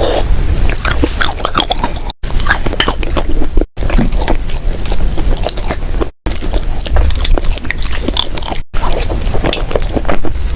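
Dry crunchy clay being bitten and chewed, a dense run of crisp crunches and crackles. The sound drops out briefly four times between clips.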